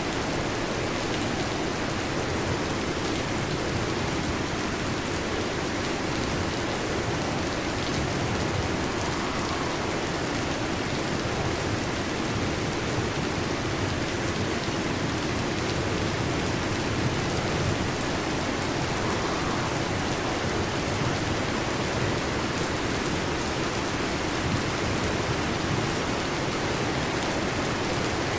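Heavy rain falling on a metal roof, a steady, even hiss of rain with no thunder.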